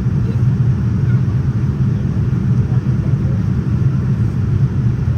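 Steady low rumble of cabin noise inside a Boeing 787-9 airliner: engine and airflow noise heard from the passenger cabin.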